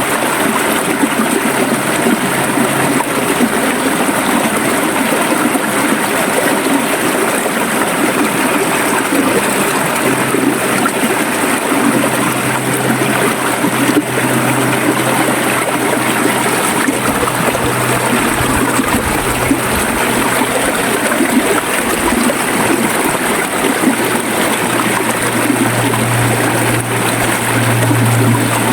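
River water flowing steadily, a continuous rushing and gurgling.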